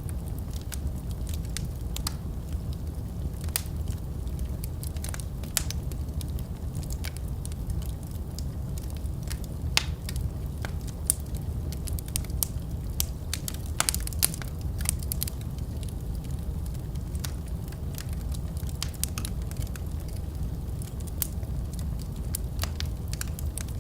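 Wood fire burning in a fireplace: a steady low rumble of flames under irregular sharp crackles and pops, which cluster thickest about halfway through.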